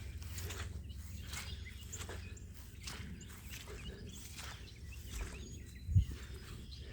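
Footsteps at a steady walking pace on rain-soaked ground, with small birds chirping in the background and a low rumble throughout. A single louder thump comes about six seconds in.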